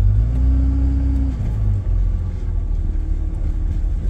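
A car running and rolling slowly, heard from inside the cabin: a steady low engine and road rumble, with a low hum that swells in the first second and a half and then eases off.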